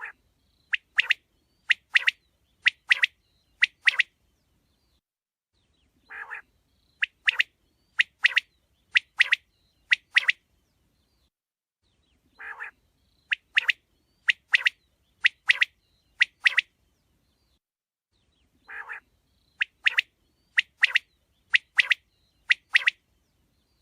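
Quail singing: a soft, lower note followed by four loud, sharp doubled calls. The phrase repeats about every six seconds, four times over.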